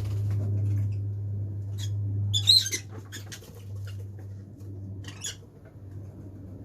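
Lovebirds giving short, sharp, high chirps and squeaks, a loud cluster about two and a half seconds in and a few more before and after, over a steady low hum.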